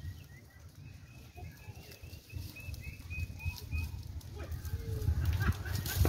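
A small bird chirping over and over, short high chirps about three or four a second with a brief break about a second in, over a low rumble that grows louder near the end.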